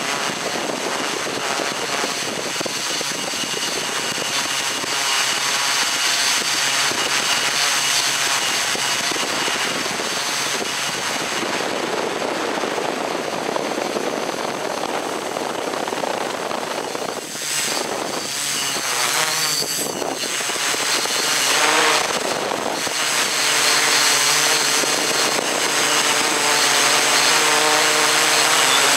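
Multirotor drone's motors and propellers whirring steadily with a high whine. The tone shifts about two-thirds of the way through and grows slightly louder near the end.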